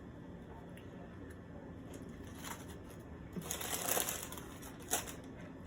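Food packaging crinkling and rustling in a short burst about three and a half seconds in, followed by a single sharp click near the end.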